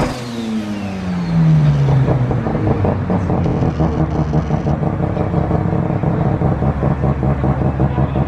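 Rotary-engined car's engine dropping back from a rev, its pitch falling over about two seconds, then settling into a loud, choppy idle.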